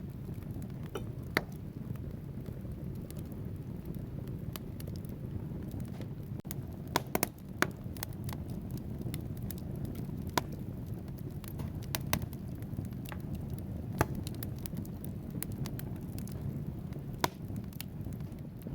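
Wood fire in a fireplace burning with a steady low rush, its logs crackling in frequent small snaps and a few louder pops.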